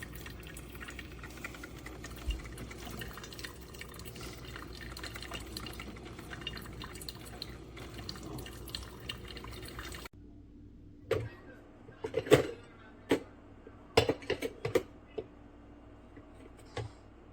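Black+Decker 12-cup drip coffee maker brewing, with a steady hiss of hot water trickling and dripping. About ten seconds in it cuts off abruptly, and a series of sharp knocks and clicks follows over a faint steady hum.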